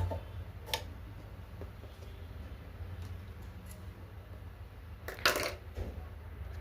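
A few small hard clicks from sewing machine parts being handled, with a louder short clatter about five seconds in, over a low steady hum.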